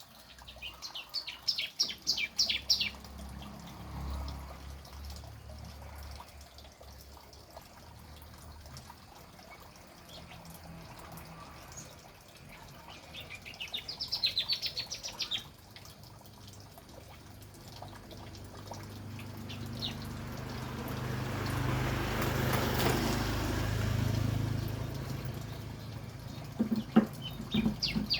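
Young tledekan gunung (hill blue flycatcher) giving bursts of rapid, high chattering trills: one at the start, another about 13 seconds in, and a short one near the end. A low hum runs underneath, and a wash of noise swells and fades between about 20 and 25 seconds in.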